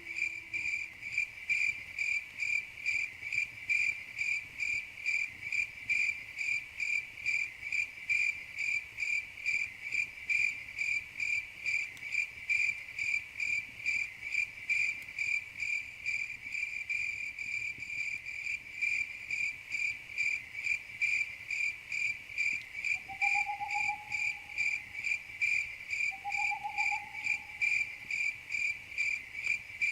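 Crickets chirping steadily in an even rhythm of about two high chirps a second. Near the end, a faint short lower call sounds three times.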